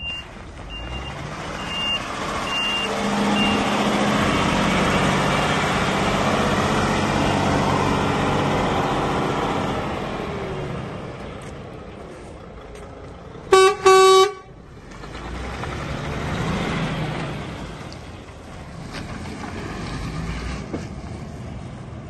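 DAF XF106 truck's diesel engine running, its revs rising and held up for several seconds before dropping back, then rising again later. About two-thirds of the way through come two short horn blasts. A few short high beeps sound in the first few seconds.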